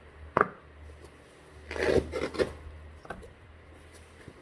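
Padded camera dividers being pulled out of a Thule Covert CSC sling bag: fabric and padding rubbing and scraping, with a sharp click about half a second in and a burst of rubbing around two seconds in.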